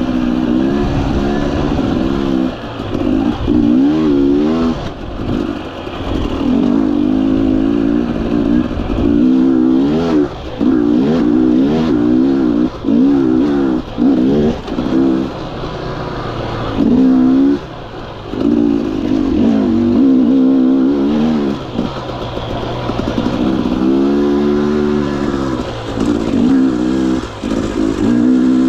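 2021 Husqvarna TE 250i fuel-injected two-stroke dirt bike engine revving up and down over and over as the throttle is worked on and off, with short drops where it is closed off.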